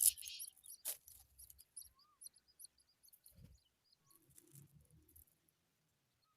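Skylark nestlings cheeping: many short, thin, high peeps in quick succession, with a couple of sharp crackles near the start and a soft low thump a little past the middle.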